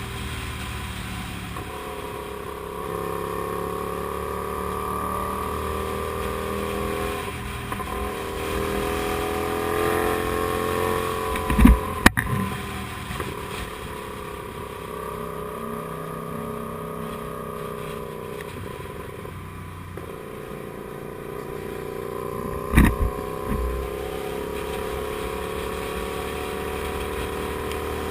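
Kasinski Comet GTR250 motorcycle's 250 cc V-twin engine running under way, its pitch rising and falling as the rider accelerates and eases off. Two sharp thumps break in, about 12 seconds and 23 seconds in.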